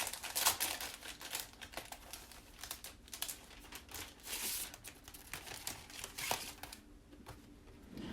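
Plastic stencil transfer sheets being handled, a busy run of crinkles, rustles and light clicks that thins out near the end.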